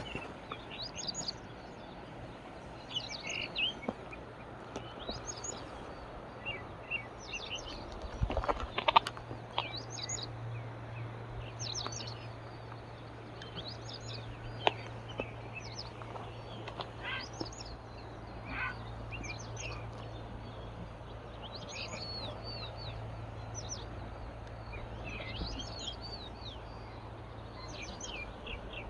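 Small birds chirping, with short high calls repeated over and over. A few sharp knocks come about eight to nine seconds in and once more near halfway, and a faint low hum runs underneath.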